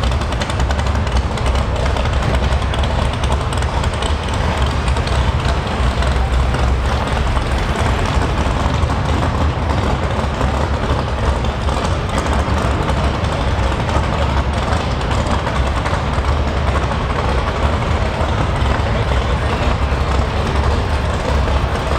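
Muscle-car V8 engine running steadily with a deep exhaust note.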